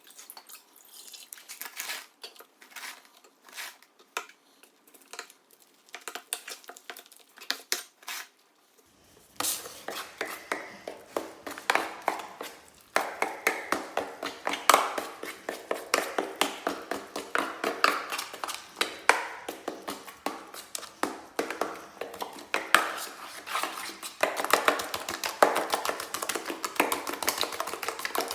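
Metal drywall knife scraping and clacking against a mud pan while Durabond quick-set joint compound is mixed. It starts with sparse clicks, then turns to quick, continuous scraping strokes from about nine seconds in.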